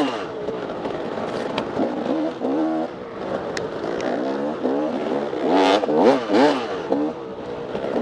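Dirt bike engine being ridden hard, its pitch rising and falling over and over as the throttle is opened and chopped, with a few sharp ticks.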